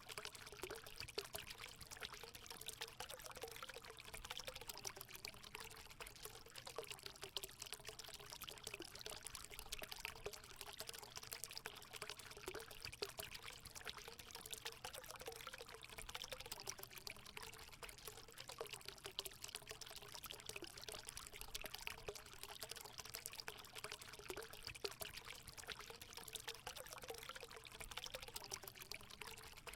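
Natural water running into a hot spring, a steady pour with continuous fine splashing and a faint gurgling tone that wavers in pitch.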